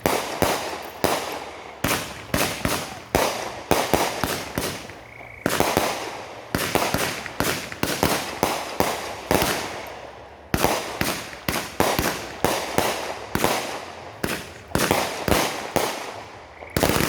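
Consumer fireworks going off in a long rapid run, with sharp bangs about two to three a second, each trailing off, and brief lulls twice along the way.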